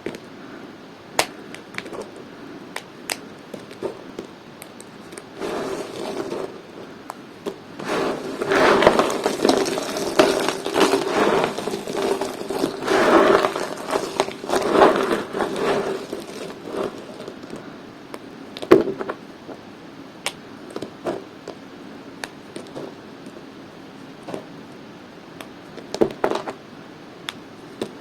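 Dry bar soap being cut with a knife, cracking and crumbling. Scattered sharp cracks come first, then a long dense run of crackling scrapes in the middle, one loud snap a few seconds after that, and a few more cracks near the end.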